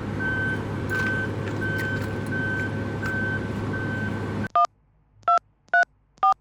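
A vehicle's reversing alarm beeping about once every 0.7 s over a steady engine rumble. The rumble and beeping cut off suddenly about four and a half seconds in, followed by four short electronic beeps.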